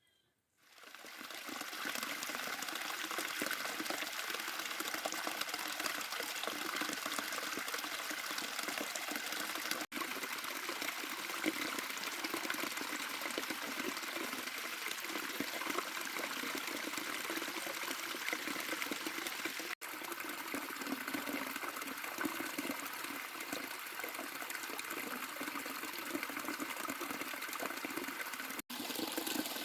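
Flowing water rushing steadily, rising in over the first second or so. It drops out briefly three times, about ten seconds apart.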